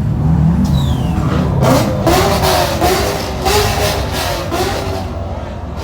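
A car engine revving, its rough wavering note rising and falling for a few seconds over a steady low engine rumble, then easing off near the end.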